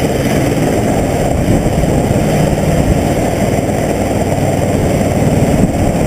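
Helicopter running: a loud, steady, dense low rotor and engine noise with a fast pulsing texture and no break.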